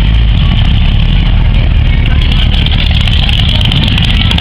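Rat rod and hot rod engines running at idle and low speed, loud and steady.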